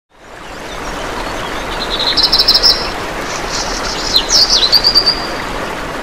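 Birds chirping and trilling over a steady rushing background hiss that fades in at the start. A quick trill comes about two seconds in, then more chirps and short down-sweeping calls.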